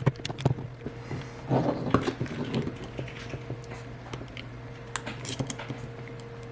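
Small tool clicks and scraping as the glued battery of an iPhone 8 is pried out, with a longer scraping rustle about a second and a half in, over a steady low hum.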